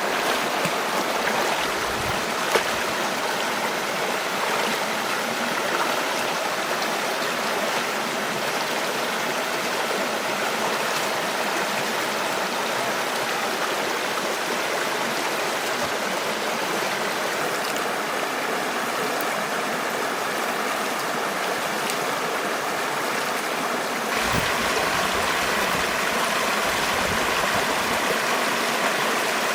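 Running water rushing steadily, like a stream, with a single sharp tick about two and a half seconds in. About 24 seconds in the sound changes abruptly and a low rumble joins it.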